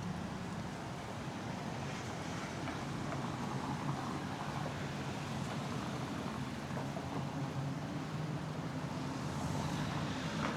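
Street traffic: a steady low engine hum from passing vehicles over a continuous wash of road noise.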